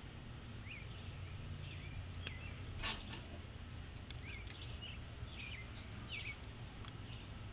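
Small birds chirping off and on in the background over a low steady rumble, with one sharp click about three seconds in.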